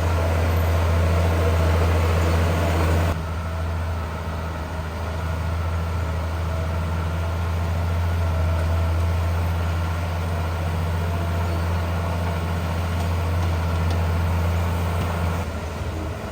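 Heavy diesel engine of earth-moving machinery running steadily with a deep, even hum. The sound drops abruptly in level about three seconds in.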